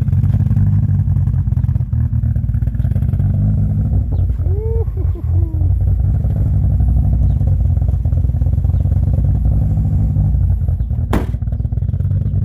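Saturn Ion Redline's supercharged 2.0-litre four-cylinder idling loudly, its exhaust leaking somewhere up front. A short wavering pitched sound rises over it about five seconds in, and a single sharp click comes near the end.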